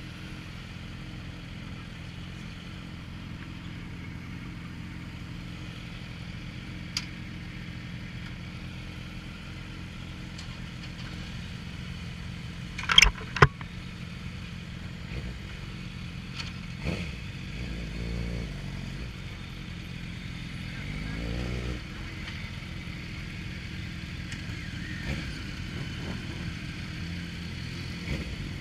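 Motorcycle engine running steadily, with two sharp clicks about 13 seconds in and the engine pitch swinging up and down a few times later on.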